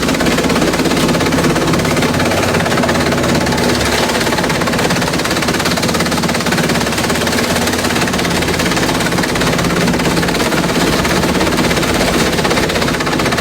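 Industrial bamboo shredder running at full load, chewing up bamboo: a loud, steady, dense rapid clatter over the low hum of its motor.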